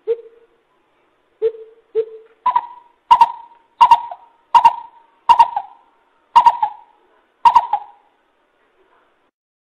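Coucal giving a series of about ten deep hooting notes, the first three lower-pitched and the rest a step higher, repeated roughly once or twice a second before stopping near the end.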